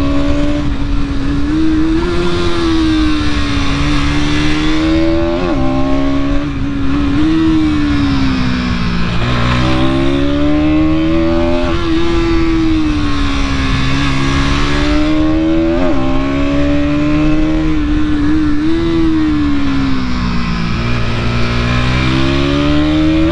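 Bajaj Pulsar NS200's single-cylinder 200 cc engine running under way, its pitch rising and falling every few seconds as the throttle is opened and closed, with a few sharp dips and recoveries. A steady rush of wind and road noise lies beneath it.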